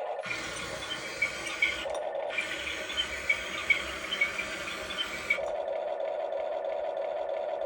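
Huina RC excavator's small electric motors whining steadily. Over most of the first five seconds, scraping and clicking sounds come from the moving machine, with a short break near two seconds; after that only the whine remains.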